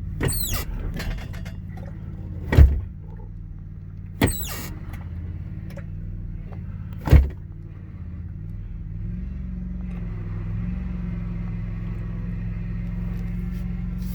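A riding lawnmower's engine runs steadily as it tows a truck, heard from inside the truck's cab. Loud clunks come about two and a half and seven seconds in, with squeaky creaks near the start.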